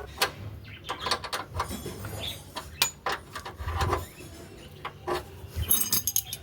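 Irregular clicks, knocks and metallic clinks of hand tools and metal motorcycle parts being handled, with a few ringing metal tones near the end.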